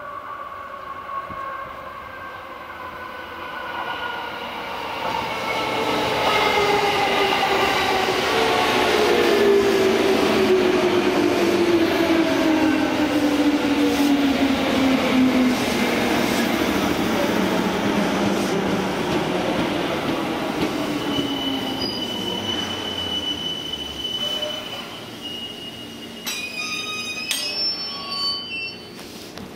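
JR 205 series electric train pulling in and slowing to a stop. The hum of its motors and gears falls slowly in pitch as it decelerates. A steady high brake squeal comes about two thirds of the way in, and a few short clicks and hisses follow near the end.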